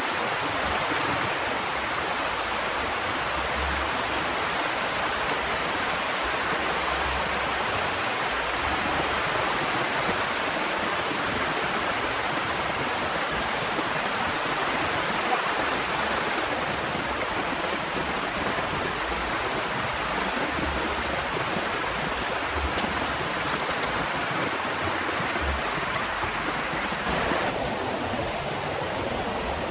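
Heavy rain falling steadily, a dense, even hiss with no letup. About 27 seconds in, the upper part of the hiss changes abruptly.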